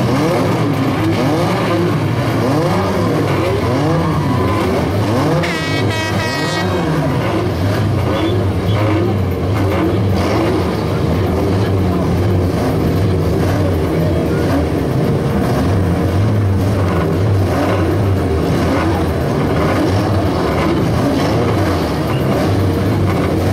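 Many stock-car engines revving together on the starting grid, their pitches rising and falling over one another in uneven blips, waiting for the start.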